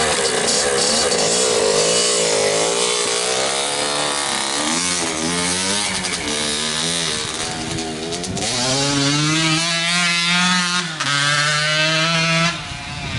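1987 Kawasaki KX80's small two-stroke engine revving hard under riding, its pitch climbing and falling several times, then held high before dropping off near the end.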